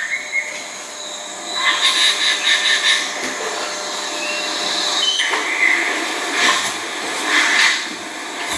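Steady hissing outdoor background with several brief high chirps from birds scattered through it.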